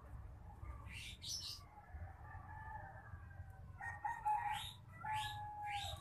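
Faint bird calls: a few drawn-out calls held on a steady pitch, strongest in the second half, with short rising chirps, over a low steady rumble.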